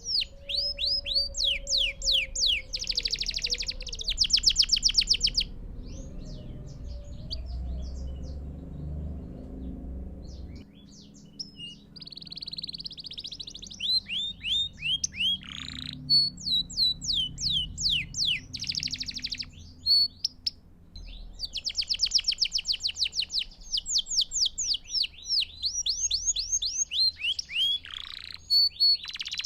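Belgian canary singing: long runs of quick falling whistled notes alternating with fast rolling trills, broken by a pause of a few seconds near the middle.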